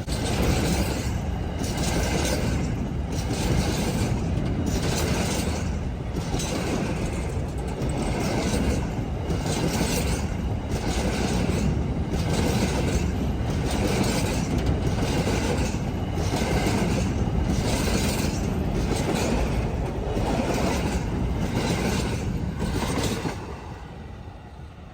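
A long wheat freight train rolling past, its wagons' wheels clacking in a steady repeating rhythm over the rail joints. The sound eases off near the end.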